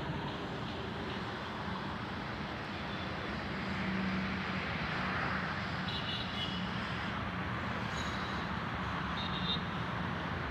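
Steady vehicle and road traffic noise, with a low hum underneath and a couple of brief faint high-pitched sounds a few seconds apart.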